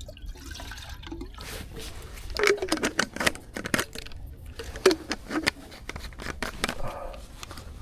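A camp cook set being handled: irregular clicks, knocks and light clatter of pots and parts.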